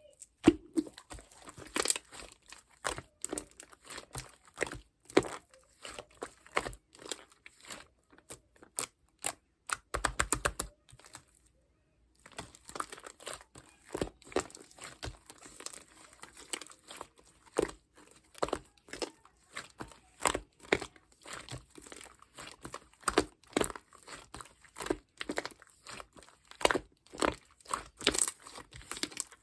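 Shaving-foam marbling slime being squished and pulled by hand: a steady stream of irregular sticky clicks and crackles, with a quick run of them about ten seconds in and a brief pause just after.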